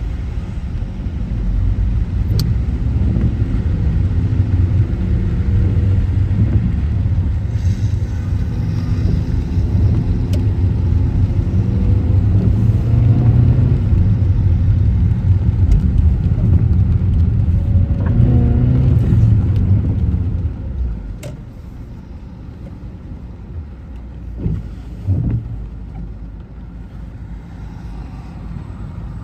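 Car driving: a loud low engine and road rumble whose pitch rises and falls as it accelerates, easing off to a quieter rumble about 21 seconds in.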